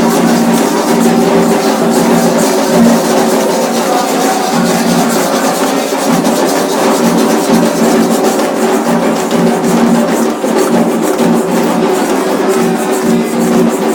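Loud, continuous percussion music: drums with a sharp clicking, wood-block-like beat, over steady held tones.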